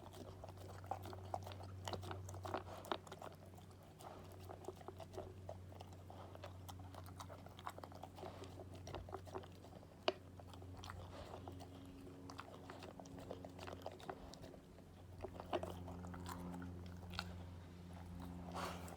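Akita dog chewing and crunching its breakfast, a dense run of irregular bites and crunches with one sharper click about ten seconds in, over a steady low hum.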